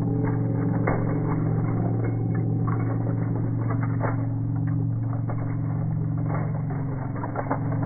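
Slowed-down audio of a toy monster truck rolling over toy cars: a steady low hum with scattered short plastic clicks and knocks.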